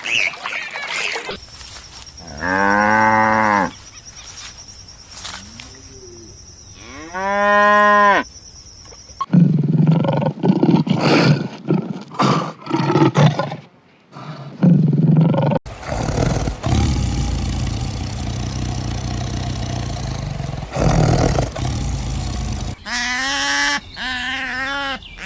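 A run of animal calls, led by cattle mooing in two long drawn-out calls, then harsh noisy calls in the middle and wavering pitched calls near the end.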